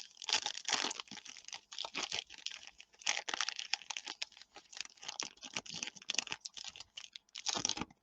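Baseball trading cards and their pack wrappers being handled: a dense run of quick flicks, rustles and crinkles of card stock and wrapper, which stops suddenly at the end.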